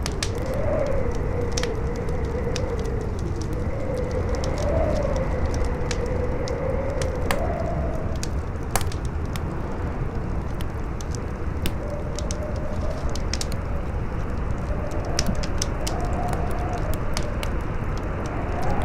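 Campfire crackling with scattered sharp pops over a steady rush of strong wind, whose howl wavers up and down in pitch.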